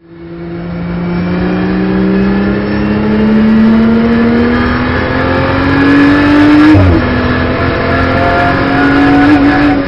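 Onboard sound of a BMW M240i Racing Cup's turbocharged straight-six under full acceleration. The engine fades in and climbs slowly through the revs for about seven seconds. A quick upshift then drops the pitch, and it starts climbing again.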